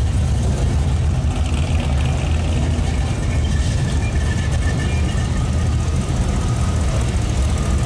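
Classic cars cruising slowly past in a procession, their engines running with a steady low rumble.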